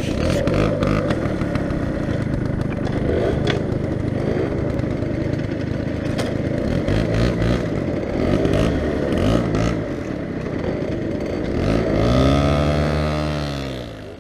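Motorbike engines running close by, with scattered knocks and clatter. About twelve seconds in, an engine revs up and eases back as the Peugeot 103's two-stroke engine pulls the moped away.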